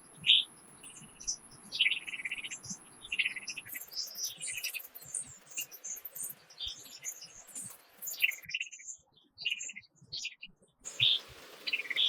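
Small birds chirping and calling, many short high notes in quick succession. A thin, steady high whine runs under them for the first few seconds, and all sound drops out for about two seconds near the end before the chirping resumes.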